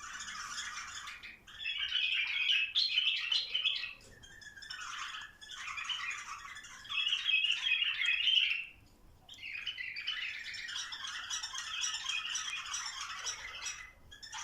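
Bulbuls singing and chattering in busy bouts of rapid notes, breaking off briefly about a second and a half in, at about four seconds, and again near nine seconds.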